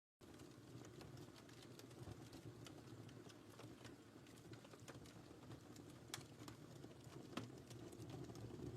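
Fire in a fireplace crackling faintly: a low steady rustle with scattered sharp pops and snaps.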